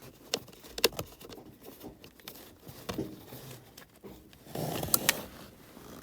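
Hands and a screwdriver working on a car's plastic centre-console trim: scattered clicks, taps and rubbing of plastic, with a louder scrape and two sharp clicks about five seconds in.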